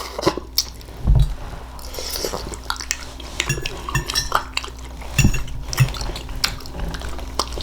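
Cutlery clinking and scraping against a dish during eating, as a scatter of short clicks with a couple of dull low knocks.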